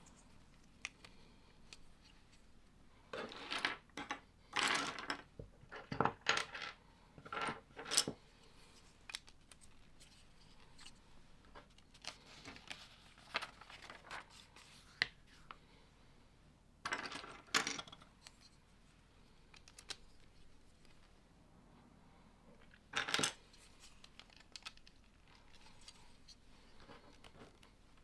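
Plastic Lego bricks clicking and rattling as they are handled and pressed together, in irregular bursts of small clicks with quieter gaps between.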